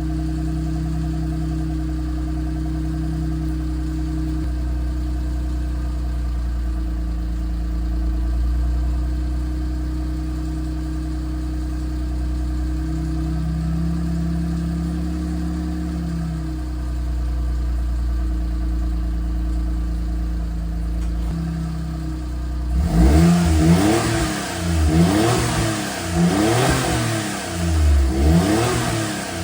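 Exhaust of a 2011 Nissan Clipper Rio's turbocharged 660 cc three-cylinder engine through a Fujitsubo Authorize A-K aftermarket muffler. It idles steadily for most of the time, then about three-quarters of the way through it is revved several times in quick succession, each rev rising and falling over about a second and a half.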